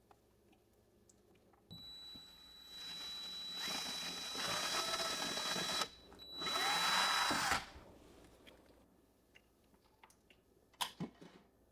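Electric drill boring a hole into the wooden cabinet for a light hook. It runs for about four seconds, pauses briefly, then runs again for about a second and a half. A few light clicks follow near the end.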